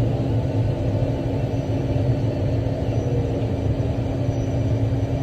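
Bell articulated haul truck's diesel engine and drivetrain heard from inside the cab: a steady low rumble with a constant hum, as the 120,000-pound truck runs along the haul road.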